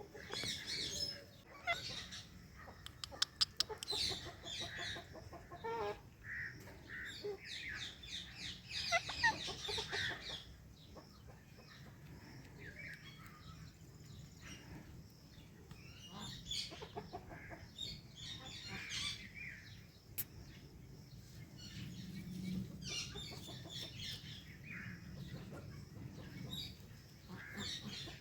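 Indian ringneck and Alexandrine parrots chirping and calling: a string of short, varied chirps and squawks, busy for the first ten seconds, then fewer and softer.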